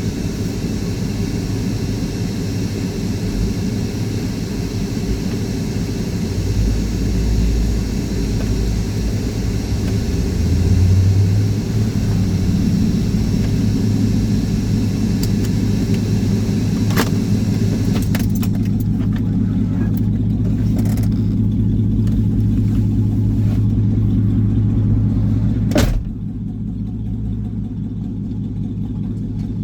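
Road vehicle running, heard from inside: a steady low engine and road drone that swells about a third of the way in. There are sharp clicks near the middle and again later, after which the drone drops a little.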